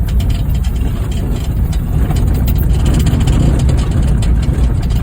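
A stripped-down Honda Fit driving over a rough dirt road: the engine and tyres make a steady, heavy low rumble, with a few small knocks.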